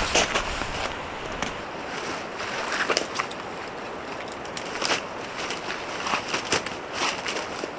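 Strong mountain wind blowing, buffeting the microphone with a low rumble that eases about a second and a half in. Irregular sharp clicks or crunches are heard through it.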